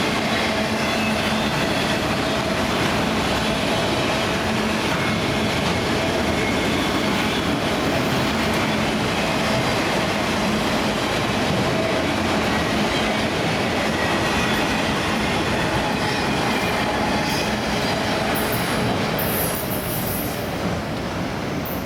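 Empty autorack freight cars of a CSX train rolling past: steady wheel-on-rail noise with clacking and a thin squeal from the wheels. It eases slightly near the end.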